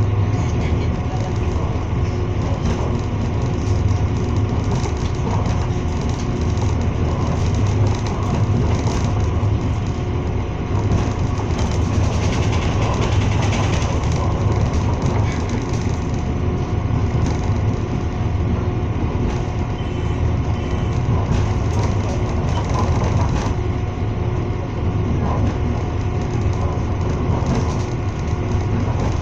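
Serbian Railways passenger train running at speed, heard from inside the carriage: a steady low rumble of the wheels on the rails with a constant hum over it.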